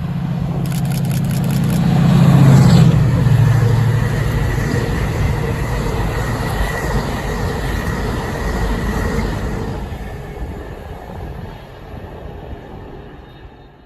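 Class 68 diesel locomotive's Caterpillar V16 engine working under power as the locomotive passes. The engine is loudest about two to three seconds in, when its pitch drops as it goes by, and then fades away.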